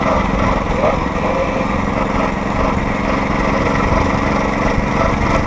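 Small gasoline engine of a homemade motorized rail cart running steadily under way. A steady engine drone holds one pitch from about a second and a half in.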